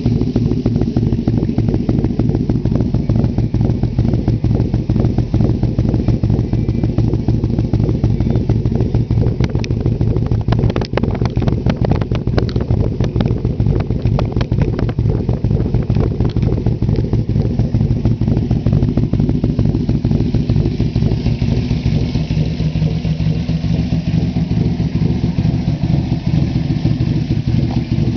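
Yamaha V-Max motorcycle's V4 engine running steadily at low revs through a Marks 4-into-1 aftermarket exhaust, a fast, even train of exhaust pulses.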